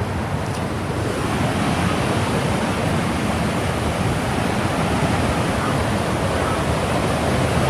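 Fast-moving mountain river rushing over big rocks: a steady, loud roar of white water.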